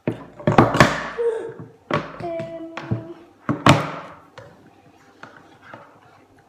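A series of loud knocks and thuds, the heaviest about half a second to a second in and again about three and a half seconds in, with a short steady pitched sound between them.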